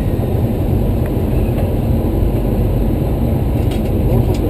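Steady low rumble of a Boeing 737-300 flight deck as the airliner taxis, with a few faint ticks near the end.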